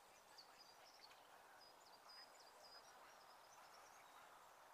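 Near silence, with faint, high bird chirps and twitters now and then.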